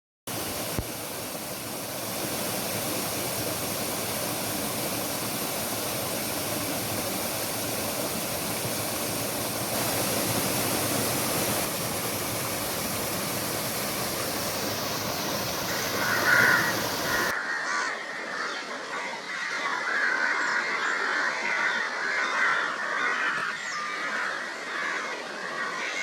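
Steady rush of falling water, which cuts off suddenly about two-thirds of the way in, leaving a flock of birds calling busily with harsh, chattering calls.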